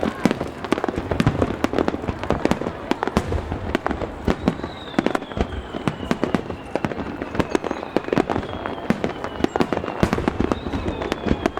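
Aerial fireworks bursting in rapid, overlapping succession, a dense barrage of bangs and crackles, with a high whistle gliding down in pitch through the middle and again near the end.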